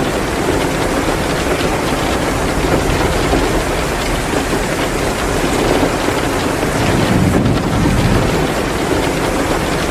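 Heavy rain pouring steadily, mixed with the crackle of a wood fire in a fireplace.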